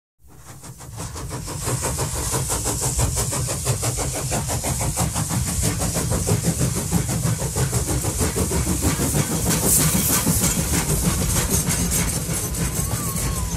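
A train running: a rapid, even beat of clicks over a low rumble and a hiss, fading in after a moment of silence.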